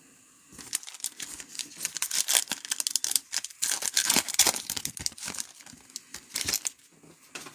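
A foil trading-card pack wrapper being torn open and crinkled by hand, a dense run of crackling from about half a second in until nearly the end.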